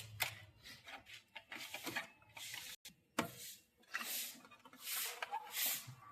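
Hands working on the plastic parts and wiring of a washing machine's control panel: scattered clicks and knocks, with short scraping and rustling strokes toward the end.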